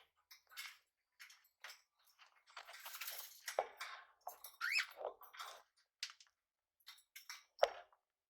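Small pet parrots chirping and chattering softly, in short scratchy bursts with one rising chirp about halfway through, along with a few sharp clicks.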